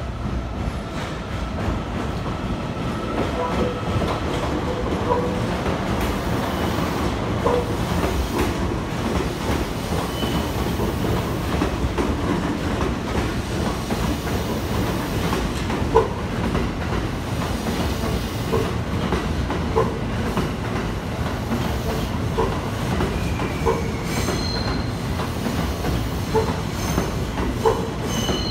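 The E001 series TRAIN SUITE Shiki-shima luxury sleeper train rolls past at a station platform. Its wheels make a steady rumble, with brief squeals and a few sharp clacks over the rail joints.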